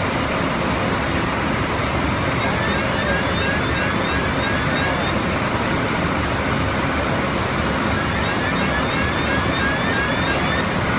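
Steady road traffic noise. Faint, quickly repeated high rising chirps come through in the first few seconds and again near the end.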